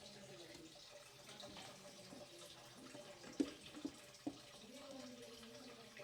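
Tap water running faintly into a sink, with three sharp knocks about three and a half to four and a half seconds in.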